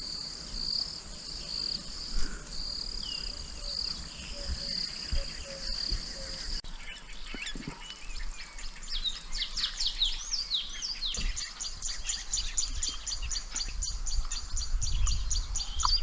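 Insects trilling in a steady, high, pulsing tone. About six or seven seconds in, this changes abruptly to birds calling with rapid, repeated, downward-sliding chirps, with a faint low rumble underneath.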